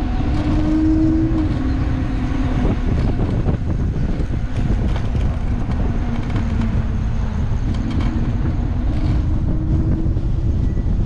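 Street noise heard from a handlebar-mounted camera on a moving electric scooter: a steady low road rumble, with a whine that rises in pitch around the start and again near the end.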